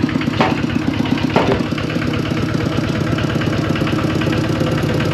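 Engine running steadily at a constant speed, with two brief knocks in the first second and a half.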